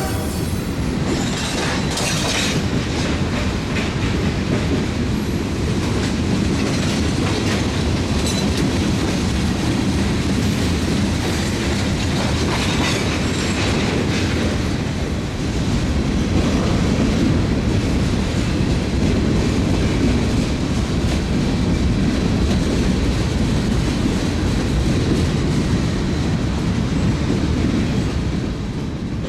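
CPKC intermodal freight train rolling past close by: a steady rumble of wheels on rail with clickety-clack from the wheels over rail joints.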